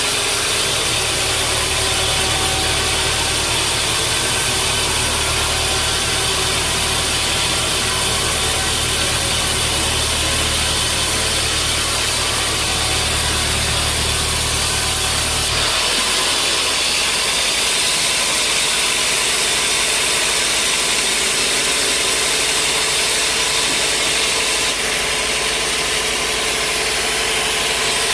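Sawmill machinery running with a steady, loud mechanical noise. About halfway through, a low hum drops away and the higher hiss grows stronger.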